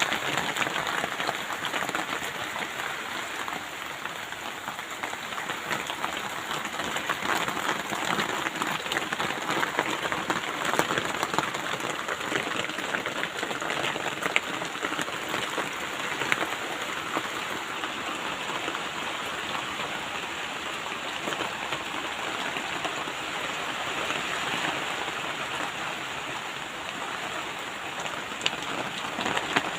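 Steady rain falling in a garden: an even hiss with dense, fine ticks of individual drops striking.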